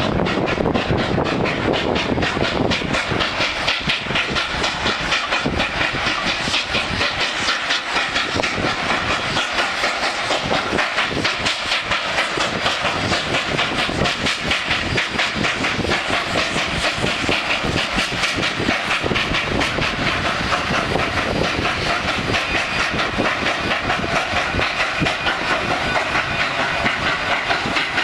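Steam-hauled passenger train running along the track: a steady, continuous rattle of wheels clicking over the rails.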